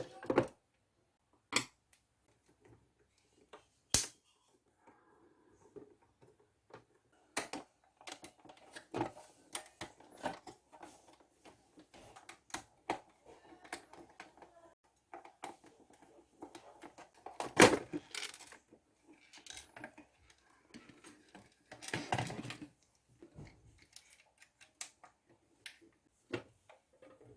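Irregular clicks, taps and light clatter of hard plastic parts being handled, with a few sharper knocks, as the toy washing machine is worked on by hand.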